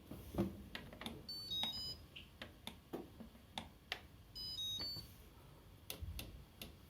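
Control panel of an AEG LTX7CR562 top-loading washing machine being operated: a series of button clicks, with two short beeping jingles of a few high stepped notes, one early on and one past the middle.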